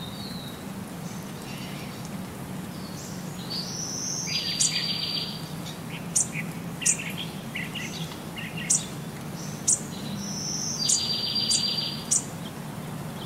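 Bird chirps and trills, the same chirp-then-trill phrase coming twice about six seconds apart, with about five sharp high clicks in between, over a low steady hum.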